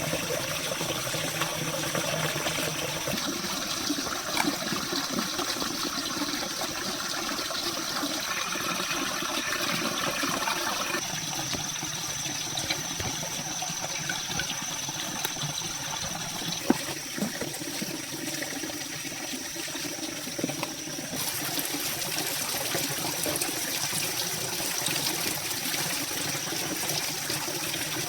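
Running water trickling and splashing, with a steady high-pitched tone behind it. The sound changes abruptly about eleven and again about twenty-one seconds in.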